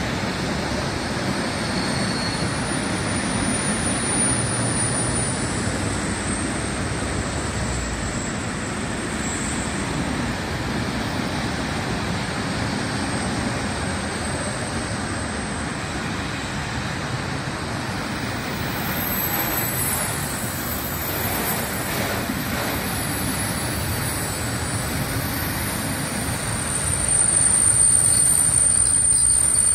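Intermodal freight train of container flat wagons rolling past: a steady rumble and clatter of wheels on rail, with thin high wheel squeals that come and go. It gets louder near the end.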